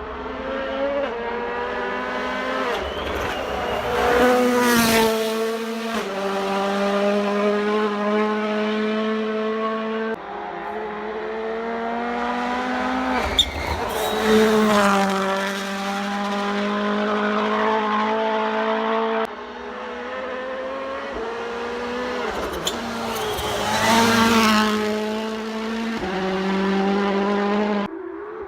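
World Rally Cars with turbocharged four-cylinder engines passing at speed one after another: each engine note rises to a peak as the car goes by, then falls in pitch, about three passes in all. A couple of sharp cracks stand out, the loudest about a third of the way in.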